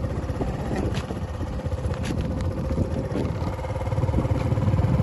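A motor vehicle engine running, a steady low rumble with a faint steady hum through it.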